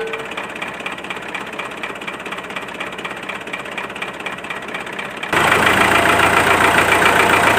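Small motor of a miniature model diesel-engine water pump running with a fast, even rattle. It jumps suddenly louder about five seconds in.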